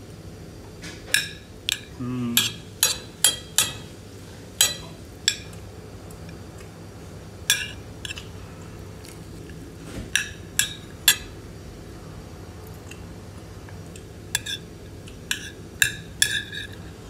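Metal cutlery clinking against dishware: about twenty sharp, ringing clinks in irregular clusters, as a spoon taps and scrapes on a plate or pot of biryani.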